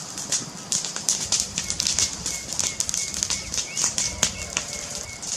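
Wood fire crackling with a steady stream of irregular small pops and snaps, and a faint thin high whistle that comes and goes in the middle.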